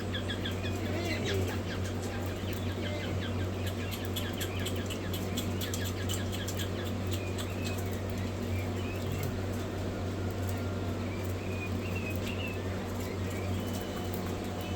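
A brood of newly hatched quail chicks peeping, with quick scratching and fluttering as they are handled, over a steady low hum. The peeps are thickest in the first few seconds and thin out later.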